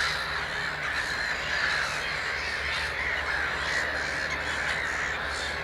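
Dense, continuous chorus of many black-headed gulls crying at once, the calls merging into a steady mass with no pause.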